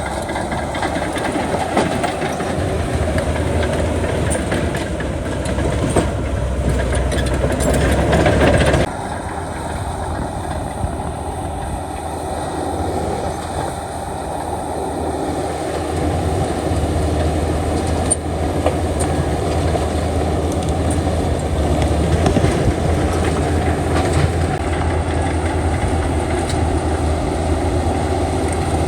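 Heavy earthmoving machinery engine running steadily under work, with a sudden change in the sound about nine seconds in.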